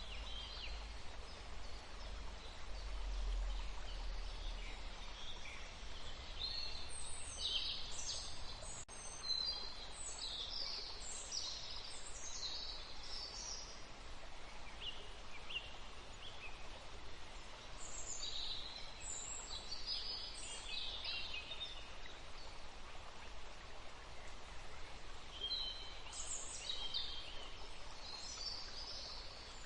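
Forest ambience: small birds chirping in three spells of quick, high calls over a steady background hiss, with a faint low rumble in the first few seconds.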